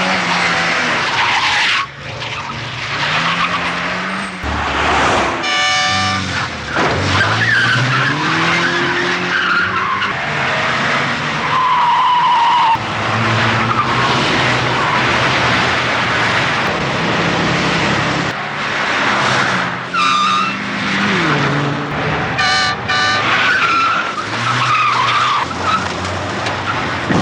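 Movie car-chase sound: car engines revving up and down hard, tyres squealing and skidding, and a car horn blaring briefly a few times, around 6 seconds in and again near 20 and 23 seconds.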